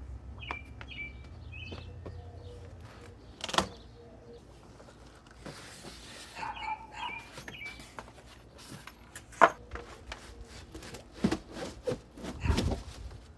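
Small birds chirping in short, quick groups of falling notes, twice. Sharp knocks and clatters are scattered through it, coming thicker and louder in the second half.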